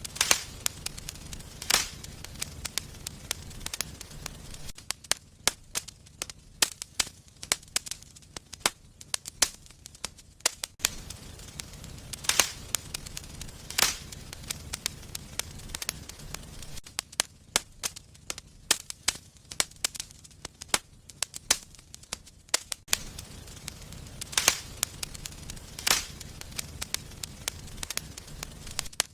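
Wood fire burning in a fireplace, crackling with frequent sharp pops and snaps. Under the pops is a low rumble that comes and goes.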